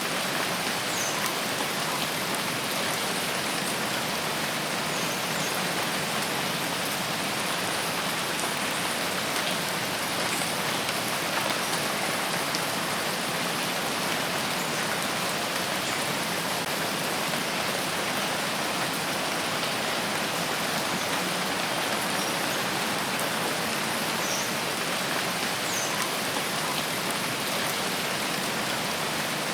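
Steady heavy rain falling, a dense even hiss of many drops that holds level throughout.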